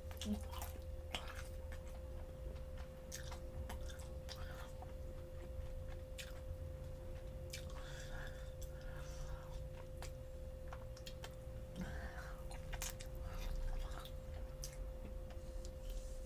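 A person chewing crispy hot honey fried chicken close to the microphone, with irregular wet clicks and crunches, over a faint steady hum.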